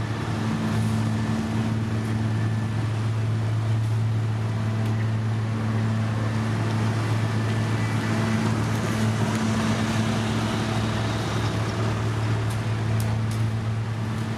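Diesel engine of heavy road-construction machinery running steadily, a constant low hum with a few faint clicks near the end.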